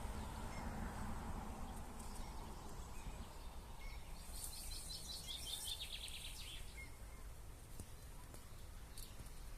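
A small songbird singing a quick trill of rapidly repeated high notes for about two seconds in the middle, over faint steady outdoor background noise.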